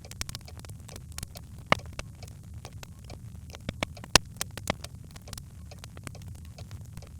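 Birchwood fire crackling in a fireplace: irregular pops and snaps over a low steady rumble, with two sharper pops a little under two seconds in and about four seconds in.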